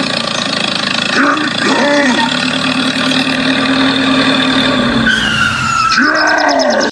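A small engine running steadily, with short gliding, voice-like sounds over it, cutting off just before the end.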